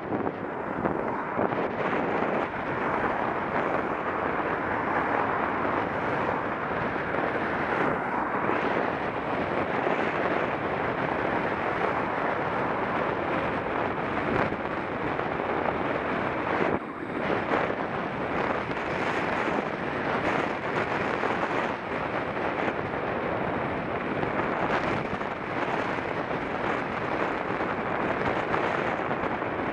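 Steady rush of wind buffeting a Contour action camera's microphone while cycling, with a brief dip about halfway through.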